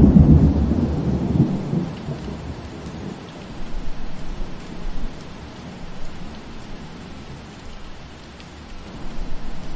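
A roll of thunder rumbling low and fading away over the first couple of seconds, under steady rain falling.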